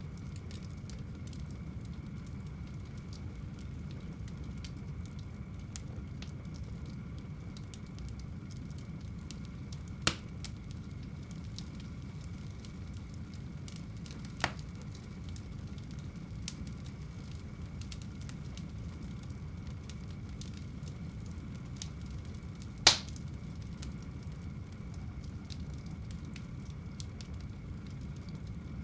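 Wood fire burning in a home fireplace: a steady low rumble of flames with frequent small crackles and a few sharp pops, the loudest about two-thirds of the way through.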